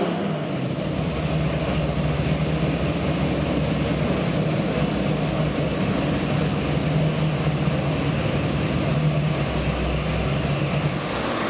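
Carbureted Ford 418W stroker small-block V8 idling steadily on the dyno after a full-throttle pull, a steady low engine note. The note stops near the end.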